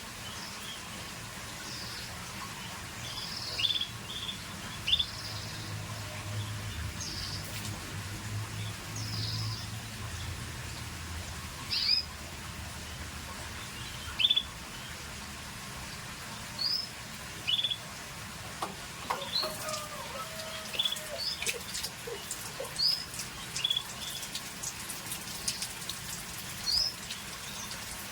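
Scotch Fancy canary giving short, high chirping call notes, one every second or two, over a steady background hiss. A few faint clicks come about two-thirds of the way through.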